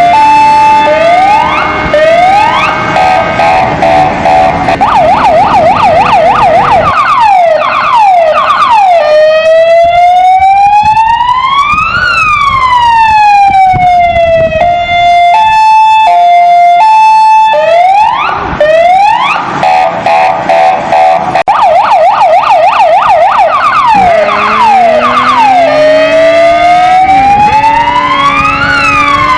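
Kingvox ERP electronic siren cycling through its tones: a hi-lo two-tone, a fast yelp, then long rising and falling wails, with the whole sequence starting over about halfway through. A low motorcycle engine rumble runs under it in parts.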